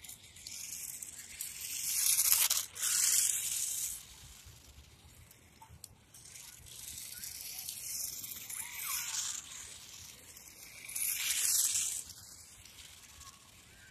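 Blomiky 1/43-scale 4WD micro short course RC truck driving under throttle: its tiny electric motor and drivetrain give a high-pitched whirring that swells and fades three times as it comes and goes.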